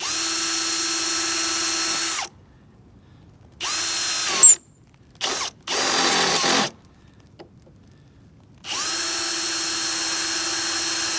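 Power drill boring into a homemade steel bracket, a hard metal, run in bursts: a steady pull of about two seconds, a few short bursts in the middle, then a longer run of about three seconds near the end.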